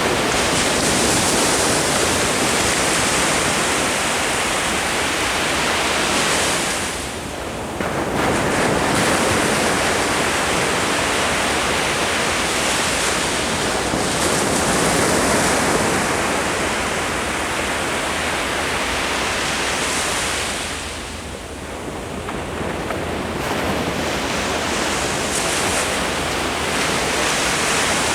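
Ocean waves breaking and washing up the shore in a steady surf, with two brief lulls between sets. Some wind buffets the microphone.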